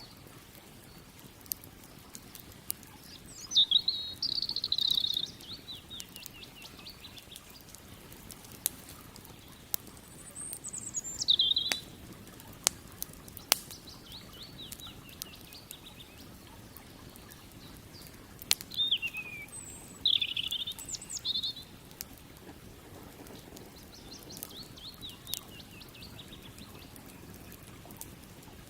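A songbird singing short, quick, trilled phrases every several seconds. Beneath it a campfire crackles and snaps with scattered sharp pops over a low steady hiss.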